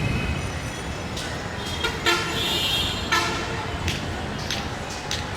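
Vehicle horns honking in short blasts: one about two seconds in, lasting under a second, and another just after three seconds. Underneath is the fading low rumble of a passing train and some sharp clicks.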